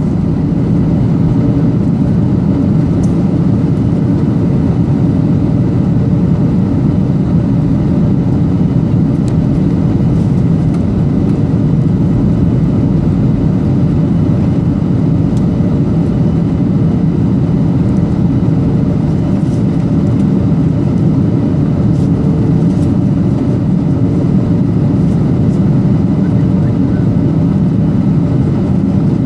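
Steady cabin roar of a Boeing 737-800 descending on approach: engine and airflow noise heard inside the cabin, deep and even, with a faint steady hum running through it.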